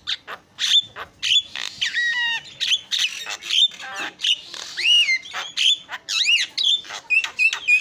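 Javan myna singing a varied, busy song of harsh squawks, clicks and whistled glides. Near the end it breaks into a quick run of short repeated notes, about five a second.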